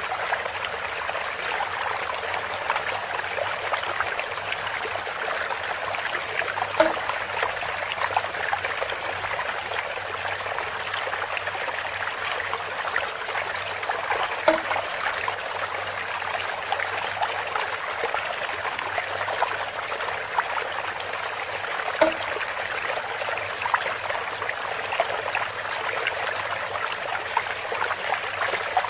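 Water trickling and splashing steadily from a bamboo water feature, with a short hollow knock that repeats about every seven and a half seconds, three times.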